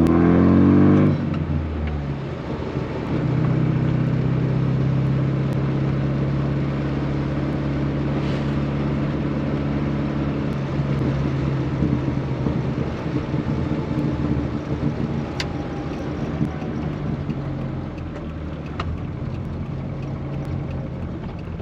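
Rover Mini's A-series four-cylinder engine heard from inside the cabin: a brief rise in revs at the start, then running at a steady engine speed that eases off and weakens near the end.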